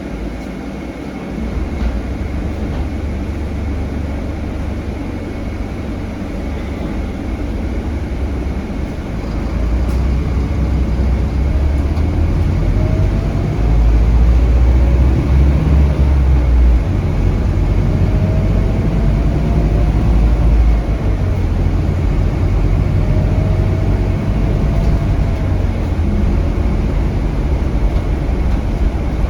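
Onboard sound of a Scania K320HB bus with its DC9 five-cylinder diesel engine, driving. The engine rumble grows louder about a third of the way in, and a faint whine rises and falls in pitch three times.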